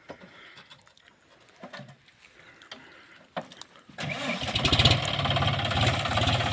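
John Deere tractor's diesel engine starting suddenly about four seconds in and running on steadily with a rapid firing beat. Before it, only a few faint knocks.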